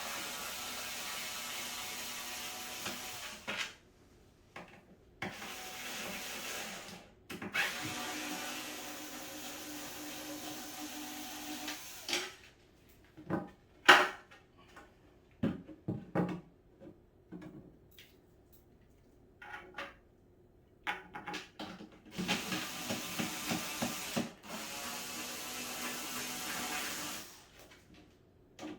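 Electric drill running in several runs of a few seconds each, driving fasteners into the cat tower's wooden parts. In a pause in the middle come a few sharp knocks of parts being handled, the loudest about halfway through.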